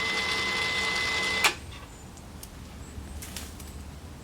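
Electric winch motor running with a steady whine, then cutting off with a sharp clunk about a second and a half in, followed by a few faint clicks.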